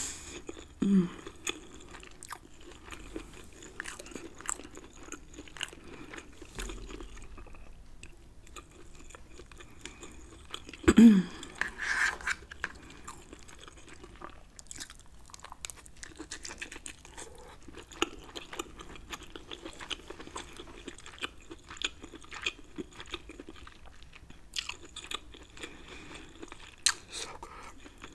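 Close-up eating sounds of king crab meat in Alfredo sauce being chewed, with many small wet mouth clicks throughout. Twice, about one second in and about eleven seconds in, a short vocal sound falls in pitch; the second is the loudest moment.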